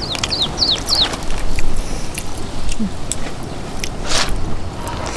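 A bird giving four quick, high, falling chirps in the first second, over a steady background of outdoor noise with scattered light clicks.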